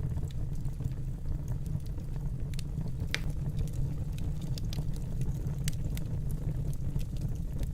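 Wood fire burning in a fireplace: a steady low rumble with scattered sharp crackles and pops, one louder pop about three seconds in.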